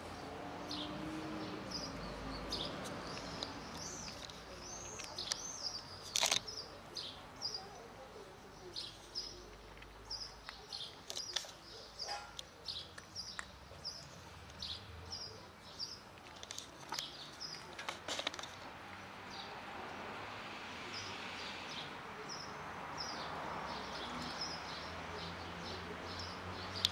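Small birds chirping over and over, short high calls, with a few sharp clicks in between.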